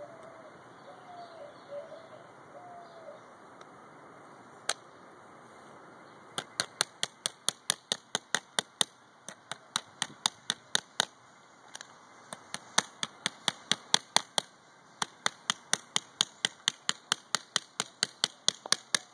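A small hammer tapping a nail into a wooden craft-kit piece: one sharp tap, then after a pause a long run of quick taps, about four a second, with a couple of short breaks.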